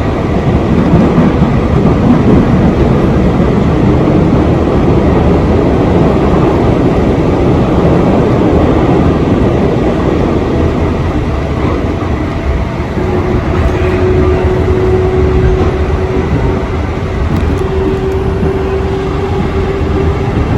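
JR Tokaido Main Line electric train running between stations, heard from inside the carriage: a steady rumble of wheels on rails. About 13 seconds in, a steady hum joins the rumble and holds.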